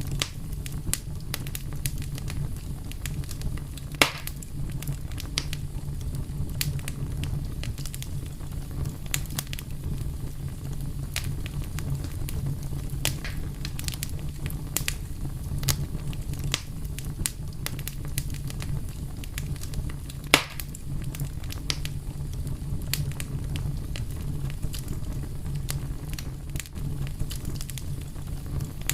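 Wood fire burning: a steady low rumble of flames under constant irregular crackling, with two louder pops, about four seconds in and about twenty seconds in.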